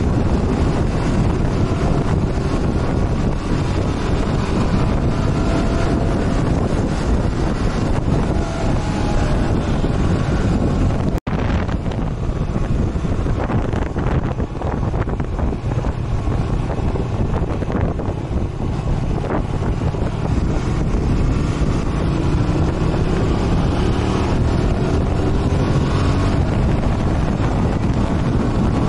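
Heavy wind buffeting on the microphone of a moving motorcycle, with the motorcycle's engine running underneath and rising in pitch at times as it accelerates. The sound cuts out for an instant about a third of the way through.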